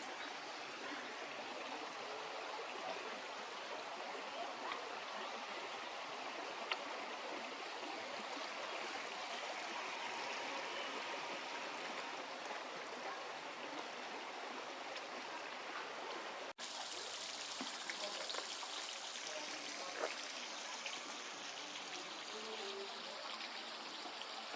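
Shallow river water running steadily over stones, an even rushing with no let-up, broken by a momentary dropout about two-thirds of the way through.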